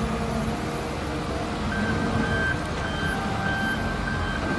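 Volvo wheel loader's diesel engine running steadily. About two seconds in, its reversing alarm starts beeping at an even, repeating rhythm.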